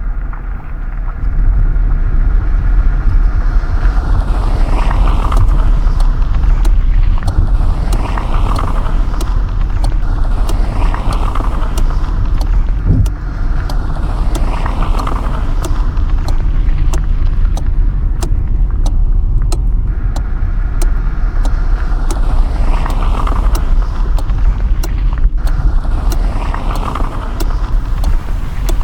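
Car driving at road speed, heard from inside the cabin: a steady low rumble of engine and tyres on the road, with scattered light ticks. It gets louder about a second and a half in.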